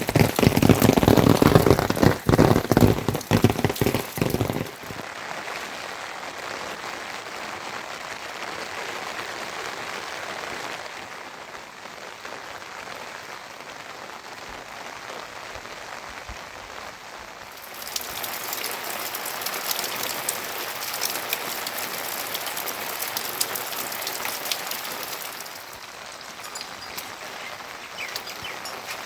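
Steady rain falling. For the first four seconds or so it is loud, with many close, sharp drop hits; after that it is a quieter, even patter whose loudness steps up and down a few times.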